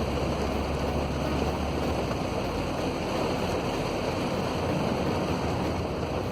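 Steady rush of heavy rain and wind noise, with a low hum underneath that fades out about two and a half seconds in.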